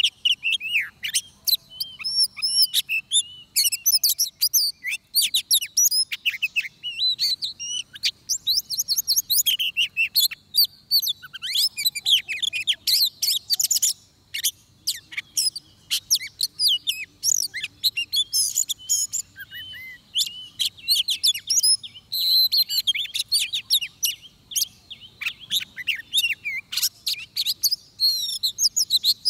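Oriental magpie-robin singing a long, varied song of quick whistled phrases and trills, broken by a few short pauses.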